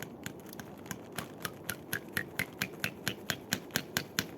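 A hammer driving a nail into wood with quick, even blows, about four a second, getting louder after the first second, each blow ringing a little higher in pitch as the nail goes in.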